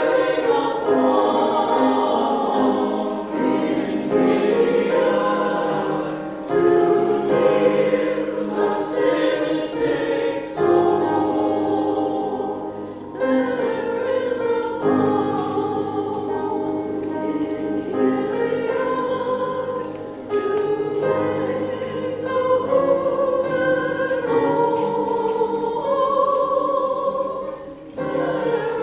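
Church choir singing an anthem, many voices in sustained phrases.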